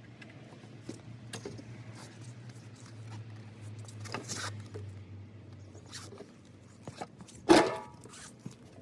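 Tools and metal parts being handled: scattered light clicks, a scrape about four seconds in, and one loud clank with a brief ring about seven and a half seconds in. A low steady hum underneath fades out about six seconds in.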